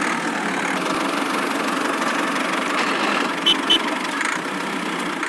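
A small engine running steadily, from the miniature construction machine. Two short high beeps come close together about three and a half seconds in.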